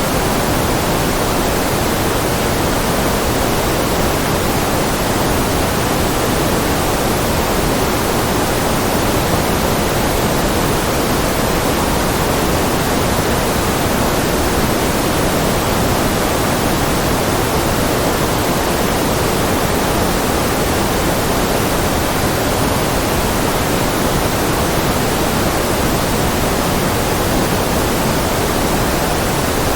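Generated white-noise track: a continuous, even hiss with more weight in the lower middle than in the treble, at a constant level with no changes or events.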